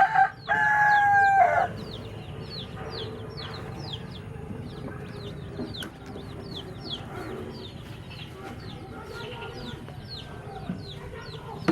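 Rooster crowing, its long final note breaking off just under two seconds in. After it, a steady run of short high falling chirps, about three a second, goes on over the low background of the chicken yard.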